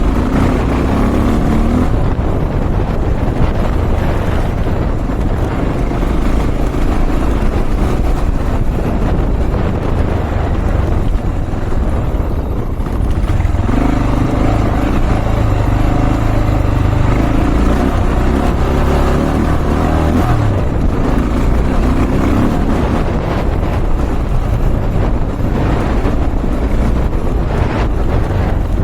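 Honda XR650L's air-cooled single-cylinder four-stroke engine running as the motorcycle is ridden, under a steady low rumble; the engine note comes through more strongly for several seconds a little past halfway.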